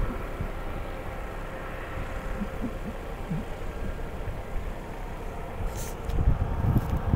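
Wind buffeting the microphone, with a faint steady hum underneath; the gusts grow stronger near the end.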